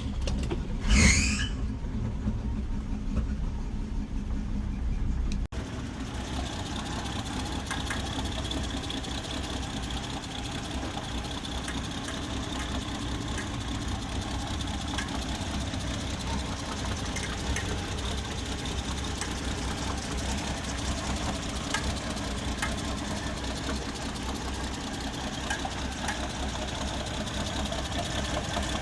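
1966 Ford Mustang's Sprint 200 inline six-cylinder engine starting about a second in and then idling steadily through its new muffler.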